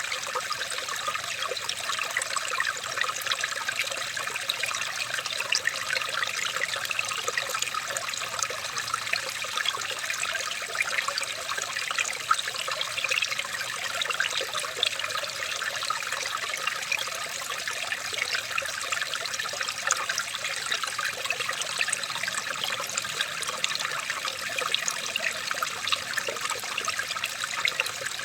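Water trickling steadily, a constant dense patter of small splashes with no let-up.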